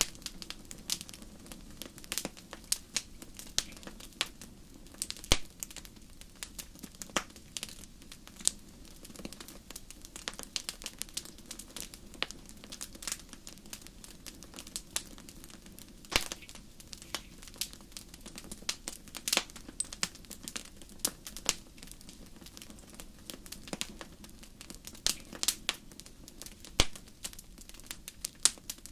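Wood fire crackling in a fireplace: irregular sharp pops and snaps, a few much louder than the rest, over a low steady rumble of flames.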